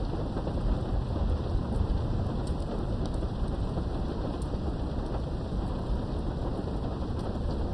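Steady rain of a thunderstorm heard through a window, muffled and low-heavy, over a continuous low rumble of thunder that swells slightly in the first couple of seconds, with faint scattered drop ticks.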